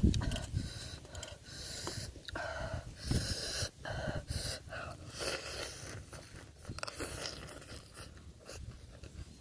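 A man chewing a mouthful of raw oyster and leafy greens with a crispy fried topping. There are wet mouth clicks and heavy breathing through the nose.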